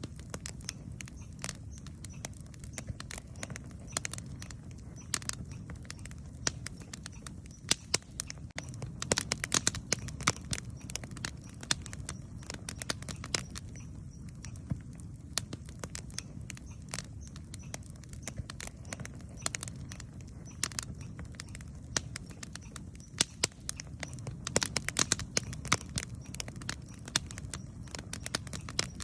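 Wood campfire burning, with a steady low rumble of flame and frequent sharp crackles and pops, thickest in two flurries, around a third of the way in and again near the end.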